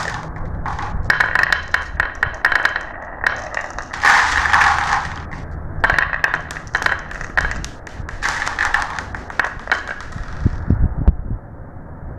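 Marbles rolling down a marble run track. Stretches of rolling rush come and go, with many sharp clicks as the marbles knock against each other and the track, and a few low thumps near the end.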